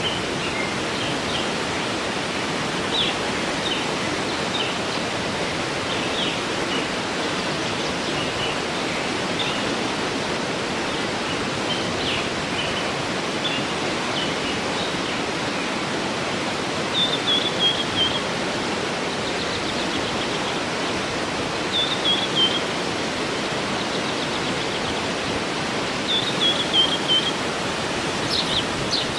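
Waterfall rushing steadily, with birds chirping over it. Three short descending bird calls come in the second half.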